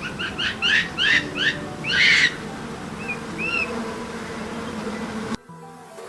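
A series of high, bird-like animal calls: about five quick rising chirps, then a louder, harsher call, then two faint short whistled notes, over a steady background hum. The sound cuts off abruptly near the end.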